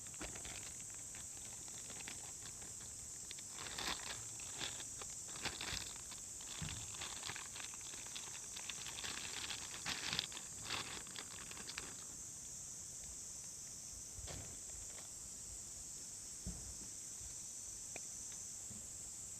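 Insects trilling steadily in a high, unbroken chorus. From about four seconds in to about twelve seconds, a run of close clicks and rustles sounds over it.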